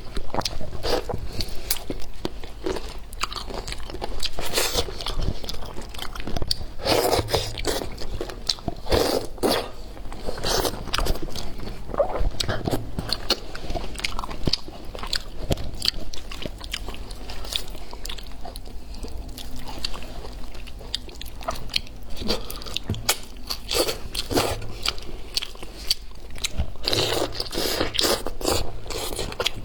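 Close-miked eating: repeated bites and crunchy, wet chewing of food, with crackles and clicks throughout.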